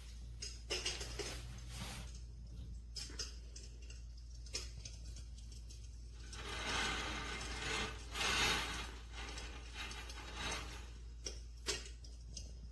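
Electric fireplace insert's built-in crackling-fire sound effect: irregular pops and crackles, with two louder hissing swells a little past the middle, over a steady low hum.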